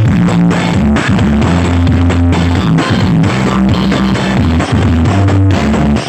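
Music with guitar, drums and heavy bass played loud through the Blizzard sound system during a sound check.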